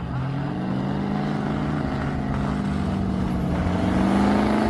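Off-road 4x4's engine running hard at high revs, its pitch creeping slowly upward and getting a little louder near the end.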